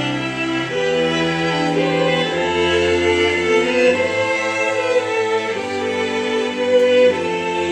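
Solo violin playing a melody over a string ensemble, with cello and bass holding long sustained chords that change every second or two.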